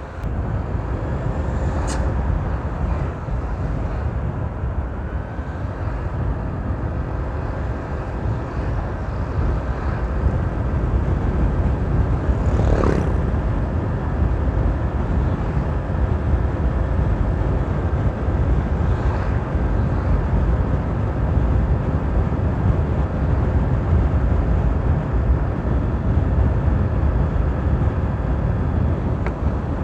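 Modified Honda PCX scooter riding along: engine and CVT running with a thin steady whine from the CBU CVT fan over a heavy low rumble of wind and road. It gets a little louder about ten seconds in.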